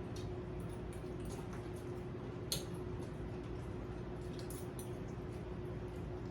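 Steady low hum with a constant tone, with a few faint scattered clicks and one sharper click about two and a half seconds in.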